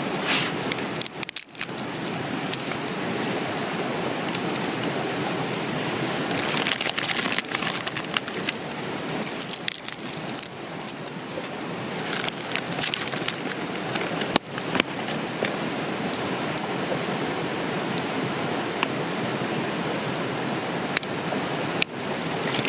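Steady rushing of a river, with scattered light clicks and taps on top.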